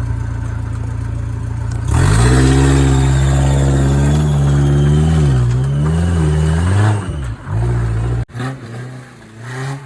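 Off-road 4x4 vehicle engine running steadily, then revved hard about two seconds in, its pitch rising and dipping with the throttle for several seconds before dropping back to quieter, uneven revs.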